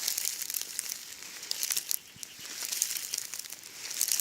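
Rustling and crackling in dry leaves and undergrowth: an irregular run of small crackles and brushing sounds as something moves through the litter.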